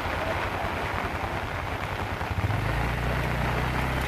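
Motorcycle engines running at low speed. A nearer engine comes in louder from about two and a half seconds in.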